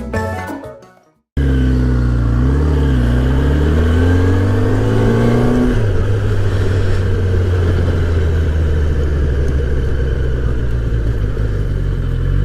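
Music fades out, then after a short gap a motorcycle engine cuts in, its pitch rising and falling for a few seconds before settling into a steady drone.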